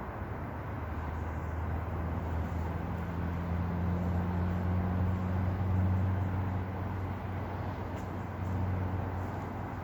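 Steady low engine drone over a constant rushing noise, swelling a little in the middle.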